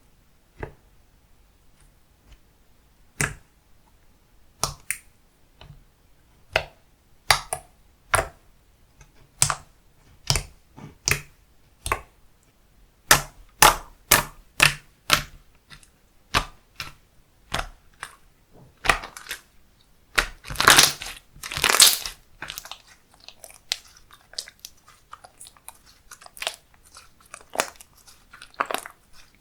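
Handmade slime being squeezed and pressed by hand, giving a run of short sharp pops and crackles about one a second, with a denser burst of crackling about two-thirds of the way through.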